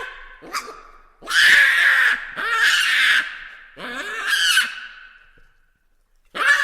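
Baboons giving a series of harsh calls, each about a second long, one after another, with a short pause before another starts near the end.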